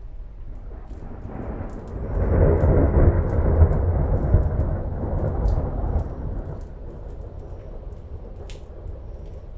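A long roll of thunder that swells about a second in, is loudest for a few seconds and then rumbles away, over steady rain with scattered drips ticking throughout.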